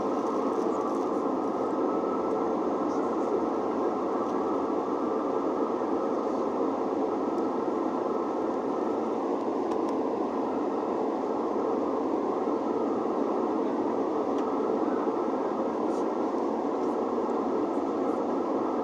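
Steady jet-engine noise of an Airbus A320, an even rushing sound that neither rises nor falls, with a faint thin whine near the start.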